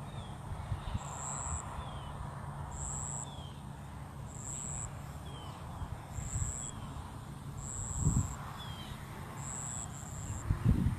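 Outdoor nature ambience: an insect's high, even-pitched buzzing pulse repeating about every second and a half, with short falling bird chirps between and wind rumbling on the microphone, gusting around eight seconds in and again near the end.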